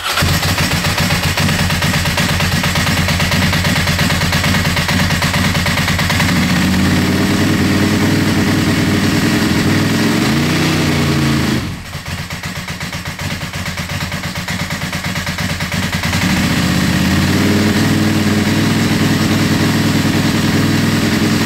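Ducati 748 Desmoquattro L-twin engine running on its first test start after being swapped in. Its revs rise and fall once around ten seconds in, it settles to a lower, quieter idle near the twelve-second mark, then picks back up to faster running about four seconds later.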